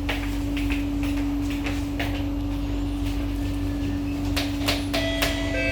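Inside a C151A MRT train car under way: a steady low hum over rumble, with scattered knocks and rattles. About five seconds in, several thin steady whines set in at once.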